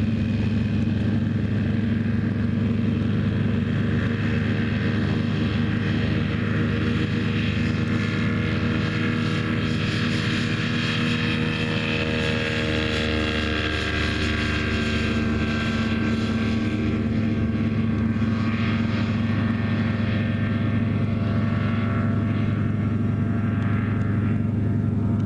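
Schempp-Hirth Janus CM motor glider's retractable two-stroke engine and propeller running steadily at takeoff power, a constant engine drone. Fainter higher tones drift slightly in pitch between about eight and fourteen seconds in.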